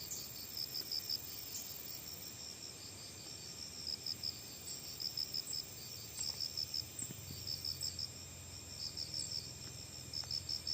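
Crickets chirping in quick, repeated trains of high pulses, with a faint low hum underneath from about four seconds in.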